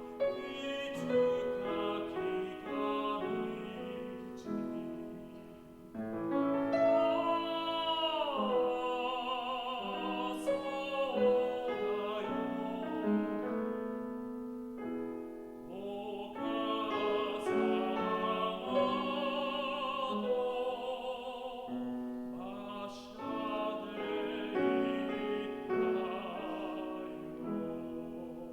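Operatic tenor singing with vibrato over piano accompaniment, in long phrases with short breaths between them.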